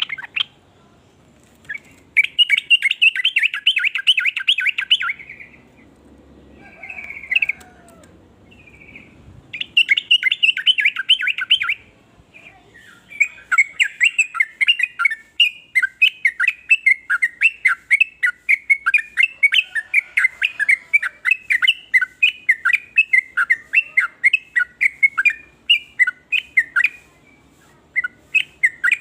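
Yellow-vented bulbul (trucukan) calling in bursts of quick bubbling, chattering notes. Two short bursts come first, then a long run of rapid repeated notes that breaks off briefly near the end and starts again.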